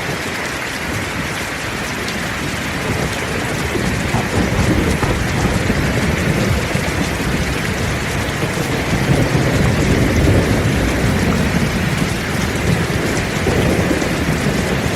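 Heavy rain falling steadily, joined by a low rolling rumble of thunder that builds a few seconds in and swells again near the middle.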